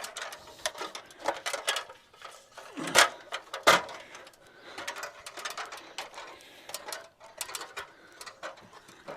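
Paintbrush working sealer onto a fibreglass bus roof: a busy run of quick scratchy strokes and clicks, with two louder knocks about three seconds in.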